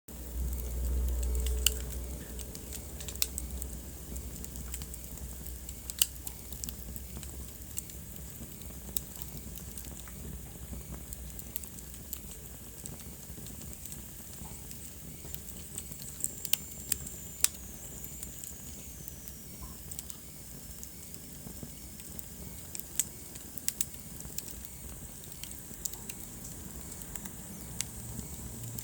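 Wood fire crackling in a fireplace: irregular sharp pops and snaps over a steady low hiss, with a louder low rumble in the first two seconds.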